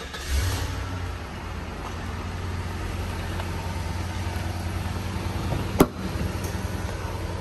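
Cadillac Northstar 4.6-litre V8 starting: it catches right at the start with a brief flare of revs, then settles into a steady idle. A single sharp knock about six seconds in.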